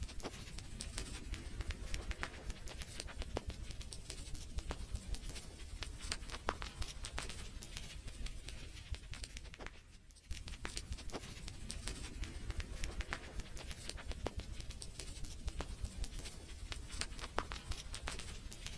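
Wood fire crackling in a fireplace: irregular sharp pops and snaps over a low steady rumble, with a brief lull about halfway through.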